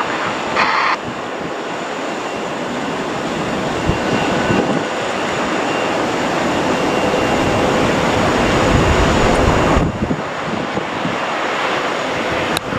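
Airliner's engines passing close by, a steady rushing noise building gradually, then dropping away suddenly about ten seconds in.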